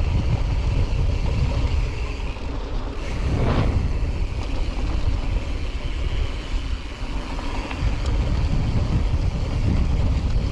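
Wind rumbling on the microphone of a camera riding along on a moving mountain bike, mixed with tyre and riding noise. A brief louder rush comes about three and a half seconds in.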